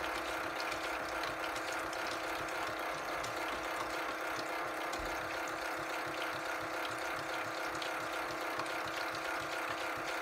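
Tide Juniors Home toy washing machine's small motor and plastic gears running steadily, agitating the water-filled drum during its rinse cycle: a steady whirring hum with a fast, even gear rattle.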